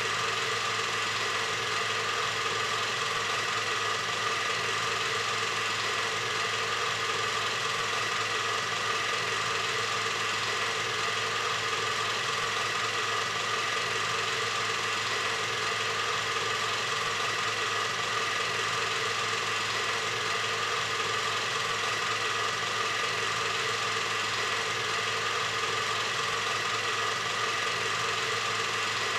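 A machine running steadily, an even hum and whir that does not change in pitch or level.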